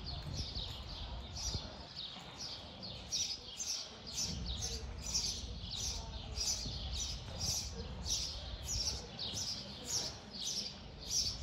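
A small bird chirping over and over, short falling chirps at about two to three a second, with a low rumble of the arena underneath.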